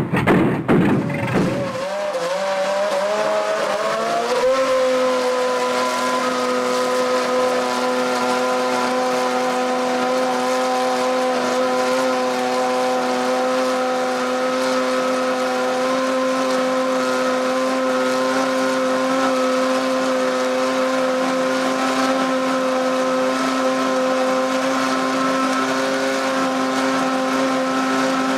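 Racing engine, billed as a Formula 1 engine, on test. After a loud, rough first two seconds its note climbs briefly, then holds one steady pitch at constant revs.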